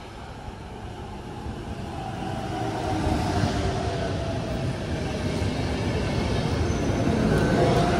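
Electric passenger train pulling into the platform, its rumble growing steadily louder as the carriages roll close past, with a faint whine over it.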